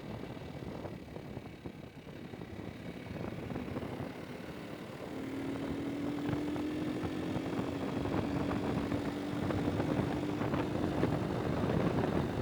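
A vehicle's engine running while under way, over rushing wind noise. About five seconds in, a droning engine tone comes up and rises slowly in pitch as the vehicle speeds up, and the sound grows louder.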